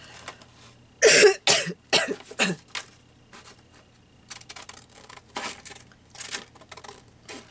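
A woman coughing four times in quick succession about a second in, followed by faint small clicks.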